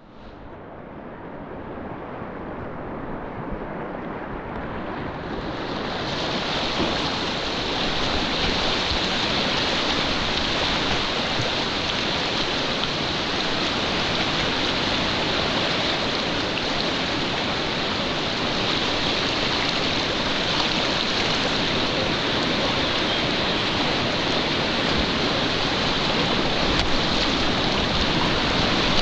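Steady rushing of mountain stream water, rising over the first few seconds and then holding even.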